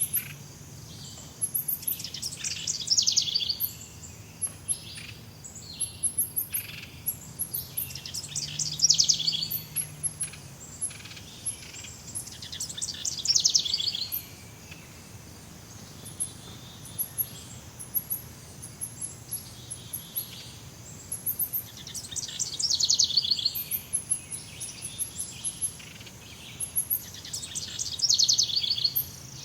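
Jungle ambience of birds calling: a loud, rapid trilling call that falls in pitch comes five times, over constant very high, short chirps.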